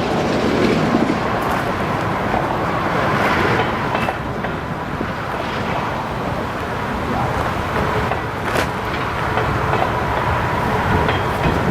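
A freight train passing: a steady rumble of wheels on rail with a few sharp clicks.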